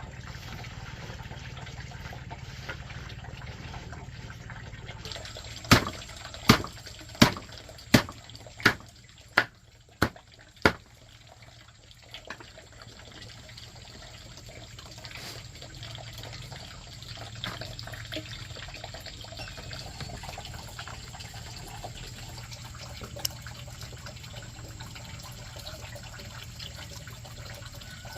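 Steady sound of running or falling water. About six seconds in comes a run of seven sharp knocks, evenly spaced about two-thirds of a second apart.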